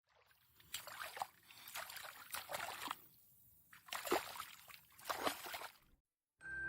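Water splashing and sloshing in irregular bursts, with a short lull about halfway through, cutting off abruptly near the end.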